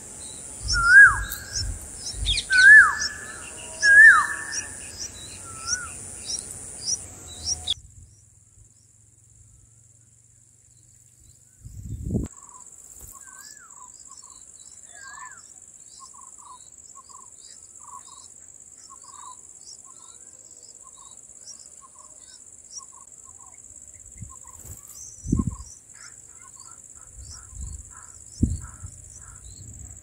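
Bulbul calls: three loud, short descending chirps in the first few seconds. Then, after an abrupt change, a quieter steady series of short bird notes about two a second. A continuous high insect buzz runs underneath, with a few low thumps.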